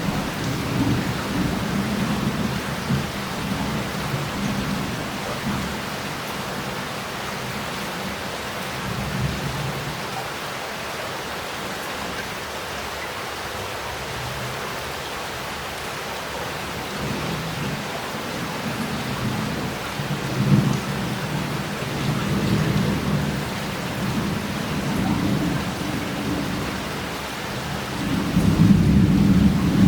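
Heavy rain falling and running off roof tiles and street, in a steady hiss, with rolling thunder rumbles that swell and fade several times and are loudest near the end.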